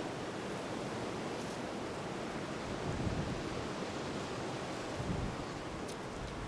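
Campfire burning with a steady rushing noise and a few faint crackles near the end.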